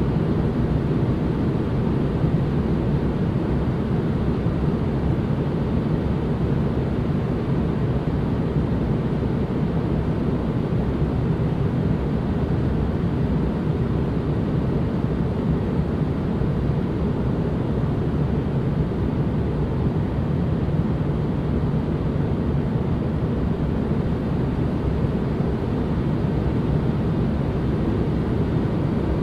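Steady white-noise ambience: an even, unbroken rush of noise, strongest low down and with little hiss at the top, never changing.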